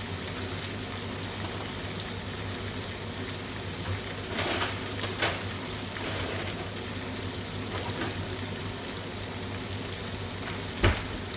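Chicken fajita filling frying in a pan with a steady sizzle as it browns. A few knocks sound over it, two soft ones about halfway and a sharp, loudest one near the end.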